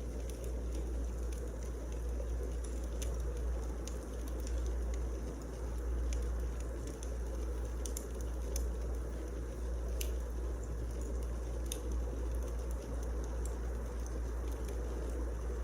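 Wood fire crackling: sparse sharp pops and snaps at irregular moments over a steady low rumble.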